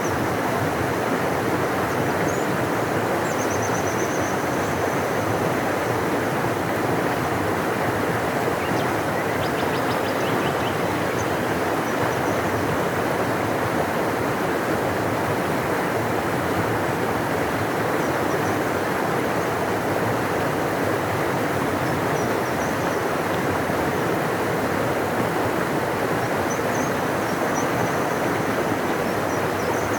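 Large river rushing steadily, a deep, even flow of water, with a few faint high chirps now and then.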